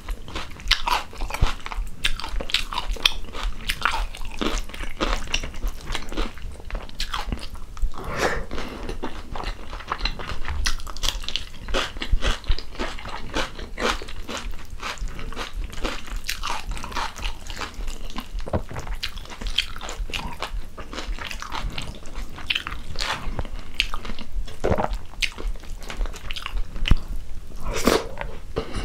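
Close-miked chewing and crunching of a mouthful of rice, chicken stew and crunchy cucumber, with wet mouth sounds and many sharp, irregular clicks throughout.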